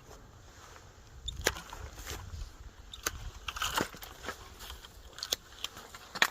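Pruning shears snipping through plum tree branches: several sharp cuts spread over a few seconds, with twigs rustling between them.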